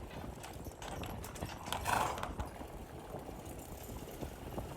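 Horse hooves clip-clopping on the street in an irregular stream of short knocks, with a brief louder sound about two seconds in.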